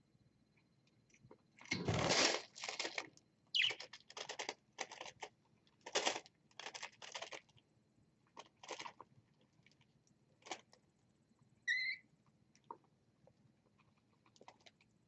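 Short scratchy, crunchy noises in clusters from a pet bird at its food, and one short chirp near the end.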